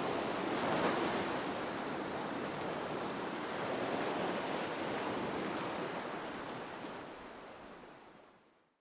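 Sea waves washing in a steady rush, fading out near the end.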